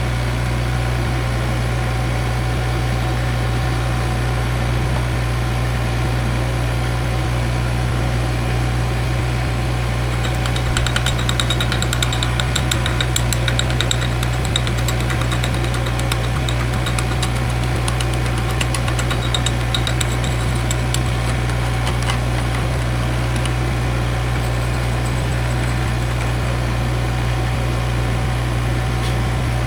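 A steady low engine hum runs throughout. From about ten seconds in to about twenty-two seconds in, an electric welding arc crackles over it as a weld pass is laid on the cracked boom.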